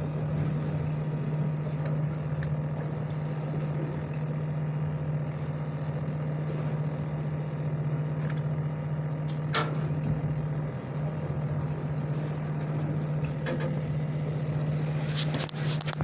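Steady, even hum of a fishing boat's machinery running. A few sharp clicks or knocks break in, one about ten seconds in and several near the end.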